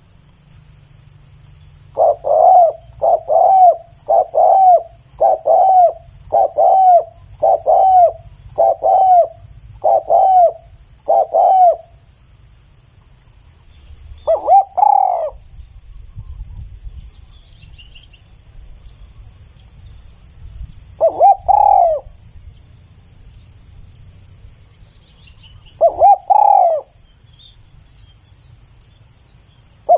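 Spotted dove cooing: a quick run of about ten coos, roughly one a second, then a few spaced-out coos. A steady high insect buzz runs underneath.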